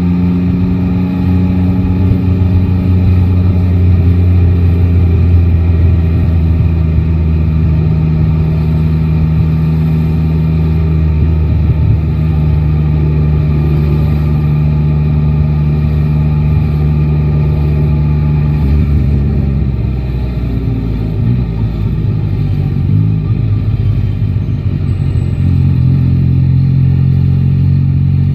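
Yamaha Tracer 9 GT's three-cylinder engine running at a steady cruise, with road and wind noise. About two-thirds of the way in the engine note drops and wavers, then settles at a new steady pitch near the end.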